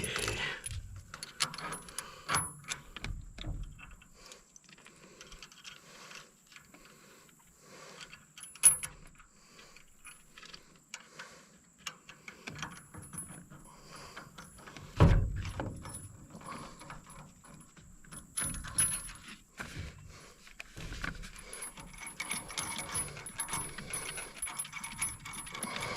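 Metal hand tools and nuts and bolts clinking and clicking while hardware is fitted on a brush cutter, with two sharp metal knocks, about nine seconds in and again about fifteen seconds in.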